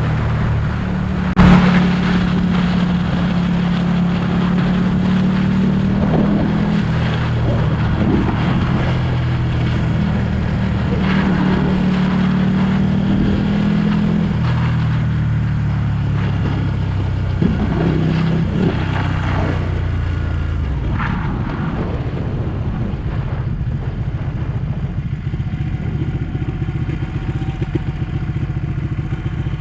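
Ducati 1199 S Panigale's Superquadro L-twin engine running under way, its pitch holding steady and stepping up and down, with a sharp knock about a second and a half in. About twenty seconds in it drops to a low, uneven burble near idle.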